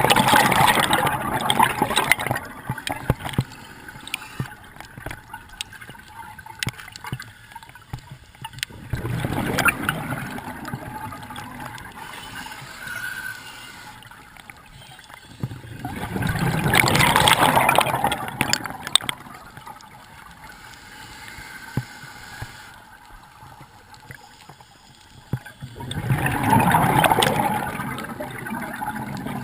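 Scuba diver's regulator exhaling, a loud bubbling rush of air bubbles every eight or nine seconds, four times, with quieter breathing between.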